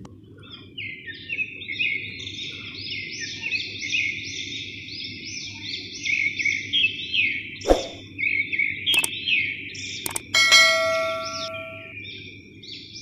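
Small birds chirping over and over in quick, overlapping calls, over a low steady hum. A sharp knock comes about eight seconds in, and a metallic clink rings briefly a couple of seconds later.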